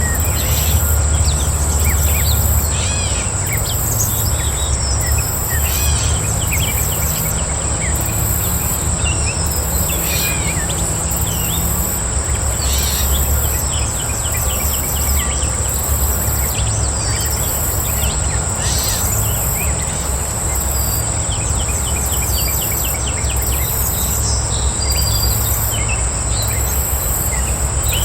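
Outdoor nature ambience: insects keep up a steady high trill, with a higher chirping that pulses about once a second. Birds call on and off throughout in quick repeated notes. A low rumble runs underneath.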